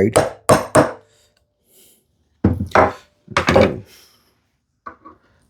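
Mallet striking a bevel-edge chisel to chop waste out of a mortise in a wooden leg. About three quick knocks in the first second, then three heavier strikes a couple of seconds in, and a couple of light taps near the end.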